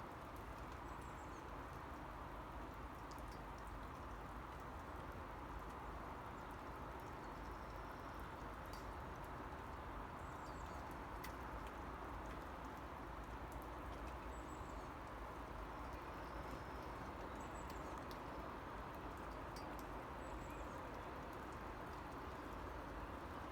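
Steady rain hissing, with scattered drops ticking close by, and small birds chirping briefly every few seconds.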